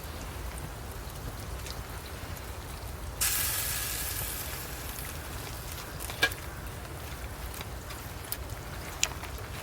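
Wood fire crackling under a steak being flame-grilled, with a sudden sizzling hiss about three seconds in that fades over a couple of seconds, then a few sharp pops.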